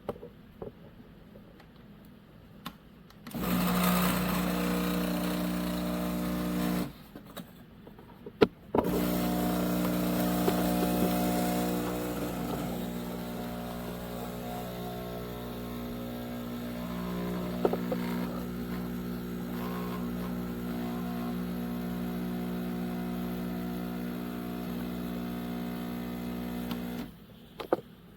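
Pump of a 20-bar home espresso machine humming as it runs: a short run of about three seconds, a couple of clicks, then a long steady run of about eighteen seconds that cuts off near the end.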